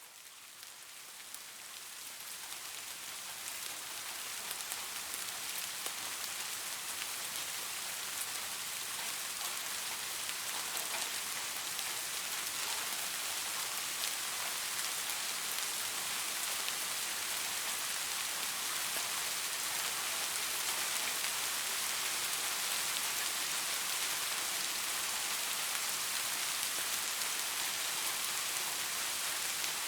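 Steady light rain falling, with a hiss of many small drops and faint scattered drip ticks. It fades up from near silence over the first few seconds, then holds steady.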